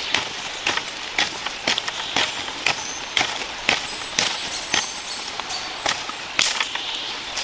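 A run of irregular sharp cracks and crunches, about two a second, over a steady hiss, with a few short high chirps and a thin high whistle about four seconds in.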